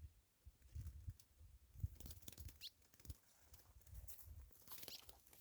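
Faint low rumbling and rustling, with an ultramarine grosbeak (azulão) giving a short rising chirp about two and a half seconds in and a fainter one near the end.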